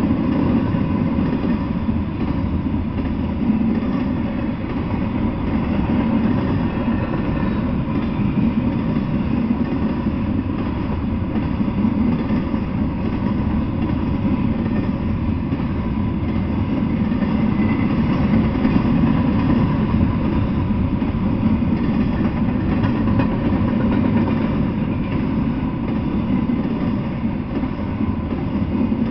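Double-stack container freight cars rolling past on the rails: a steady, unbroken rumble of wheels on track, with a faint thin steady whine above it.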